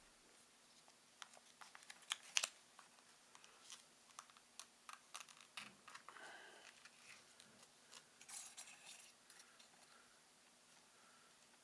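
Faint, irregular clicks and taps of small objects being handled on a desk, with a louder cluster of clicks about two seconds in and two brief rustles later.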